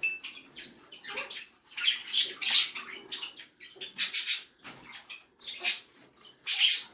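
A parrot clambering through hanging ropes and toys: irregular scratchy rustles and clicks, several per second at times, from claws and beak gripping the rope and toy parts.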